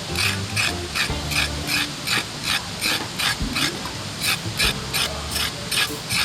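Knife chopping onion and garlic on a cutting board: a fast, even run of short strokes, about four to five a second.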